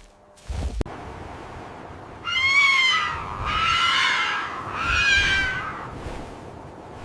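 An animal calling three times in a row, each call a long, high, slightly falling cry of about a second, after a few low thumps in the first second.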